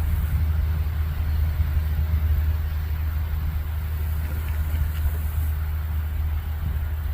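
Steady low rumble that wavers a little in strength throughout.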